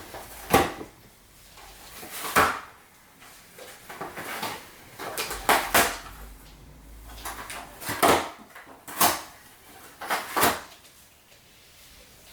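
Irregular knocks and clicks of hard plastic vacuum parts being handled and set down, about nine in all, with quiet between them.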